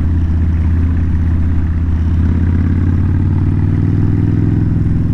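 Kawasaki VN1600 Mean Streak's big liquid-cooled V-twin running through Vance & Hines exhaust pipes: a loud, steady, low exhaust note as the bike is ridden at an even speed.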